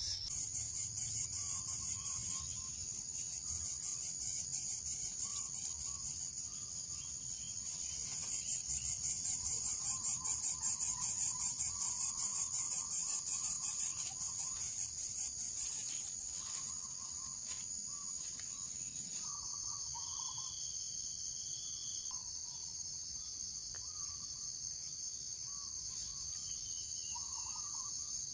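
Steady high-pitched insect chorus with a fast pulse, changing pitch about two-thirds of the way through, with short faint bird calls scattered through it.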